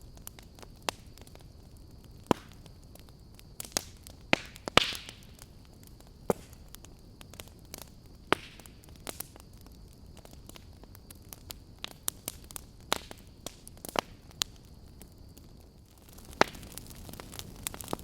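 Log fire crackling: sharp pops at irregular intervals, with a short hiss about five seconds in.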